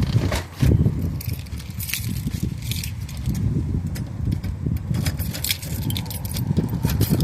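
1992 Dodge B250 van engine, freshly tuned up, catching about a second in and running with a steady rumble, with light clicks and rattles over it.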